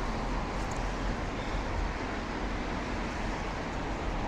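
Steady rumble and hiss of distant road traffic, with no distinct events.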